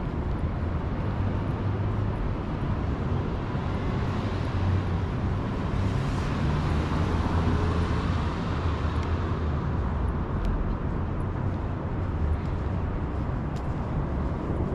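City street traffic: a steady low drone of engines and tyres, swelling as a vehicle passes in the middle.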